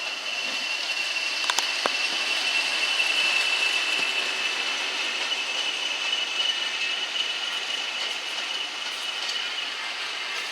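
A train rolling on the rails, its wheels giving a steady high-pitched squeal that eases slightly towards the end, with a few metallic clicks about one and a half to two seconds in.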